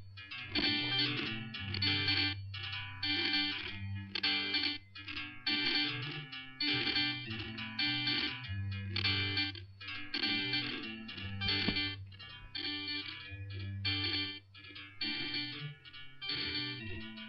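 Guitar Pro playback of two electric guitar tracks at once, coming through as a choppy, rhythmic stream marred by crackles and glitches: the computer's sound output breaking up whenever both tracks play together.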